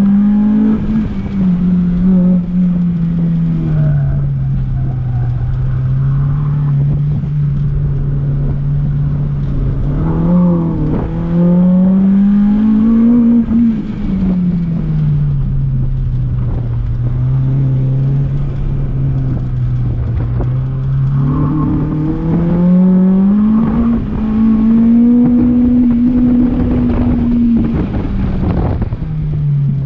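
K24 four-cylinder engine of a swapped Honda Civic EP3, heard from inside the cabin while the car is driven hard: it runs at a steady middling pitch, revs up a little after ten seconds in and falls back, then revs up again past twenty seconds, holds high for a few seconds and drops off near the end.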